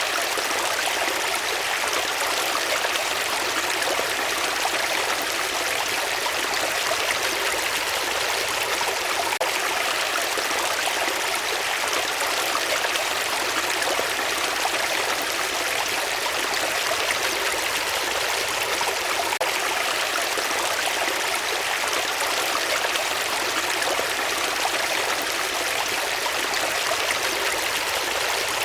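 Steady rush of water flowing in a stream, with no change in strength.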